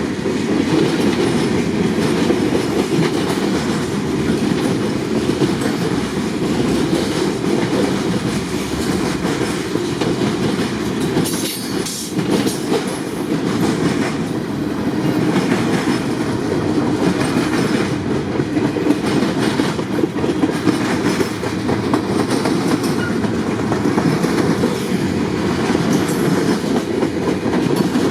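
Long CSX freight train rolling past, its wheels clicking over the rail joints with a steady rumble.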